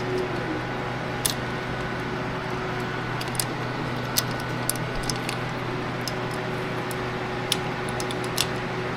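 A handful of sharp, irregularly spaced metallic clicks and taps from hand tools working on the opener's fasteners, over a steady background hum.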